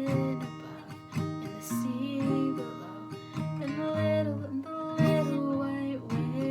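Acoustic guitar being strummed, playing a run of chords.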